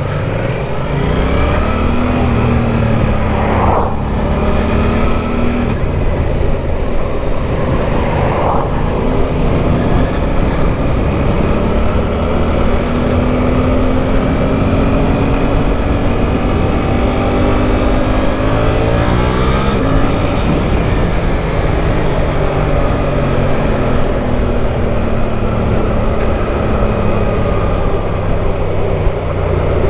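Motorcycle engine under way, its pitch rising and falling as the rider accelerates and changes gear, with a sharp rise and drop about two-thirds of the way through, over constant wind noise.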